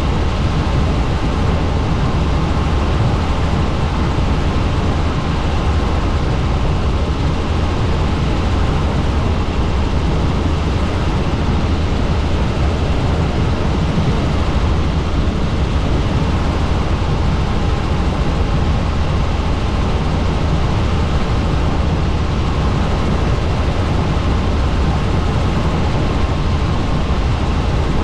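Helicopter in flight: a steady, unbroken drone of rotor and engine noise, heaviest in a low hum.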